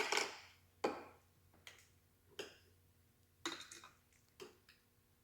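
A few faint, light knocks or clicks, about six spread unevenly over five seconds, each dying away quickly.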